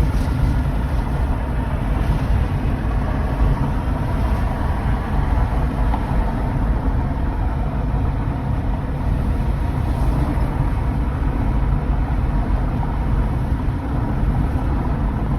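Steady rumble of a car driving, heard from inside the cabin: road and engine noise, even throughout.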